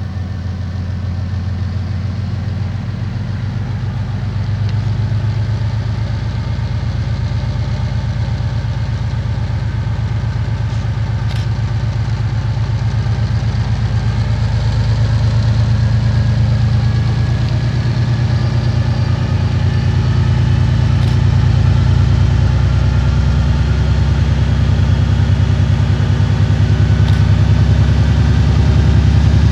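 2TE10M diesel locomotive's 10D100 two-stroke opposed-piston diesel engine running with a deep, rapid throb, growing steadily louder as it is throttled up to pull away. A whine from the engine rises slowly in pitch over the second half.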